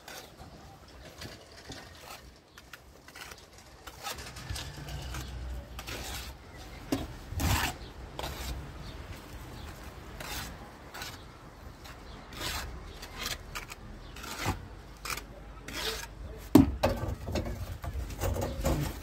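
Rubbing and scraping with scattered knocks and clicks, as of objects being handled and shifted. A low rumble joins about four seconds in, and a few louder knocks come near the end.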